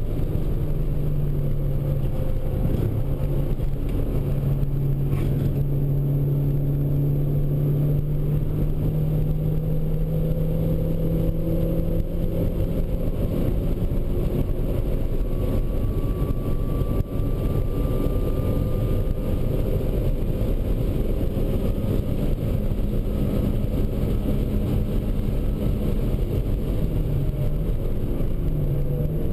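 Mitsubishi Lancer Evo V's turbocharged 2.0-litre four-cylinder engine running hard at speed, heard from inside the cabin over heavy road and wind noise. Its pitch climbs slowly along the straight, then dips briefly and picks up again near the end.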